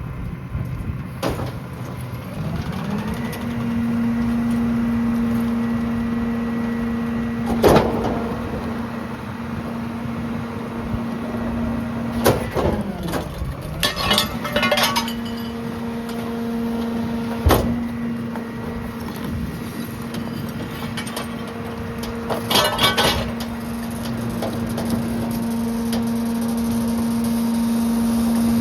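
Mack garbage truck engine revving up about three seconds in and holding a steady high rev while the Heil PowerTrak rear loader's hydraulic packer cycles. Several sharp metal bangs and clanks come from the hopper along the way.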